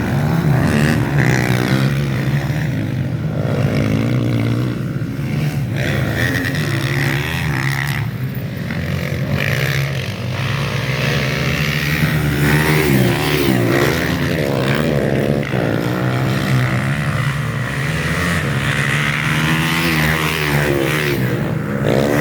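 Several motocross bikes racing around a dirt track, their engines revving up and down over one another as the riders accelerate and shift.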